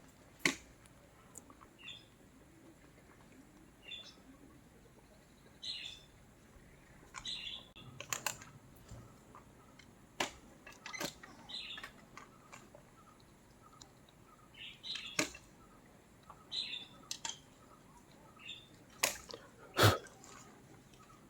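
Birds chirping in short calls every second or two, with a few sharp clicks or knocks scattered among them, the loudest near the end.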